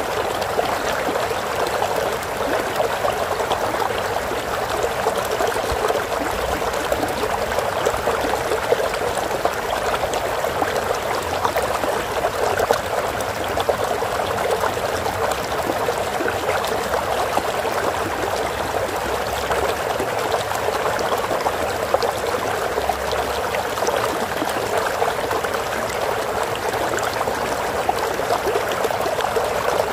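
Flowing water: a stream running and trickling steadily, a continuous splashing rush with fine droplet ticks.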